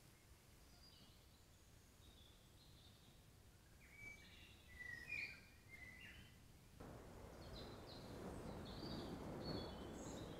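Faint birdsong: scattered short, high chirping notes over the low hiss of a trail camera's microphone. The hiss gets abruptly louder about two-thirds of the way through.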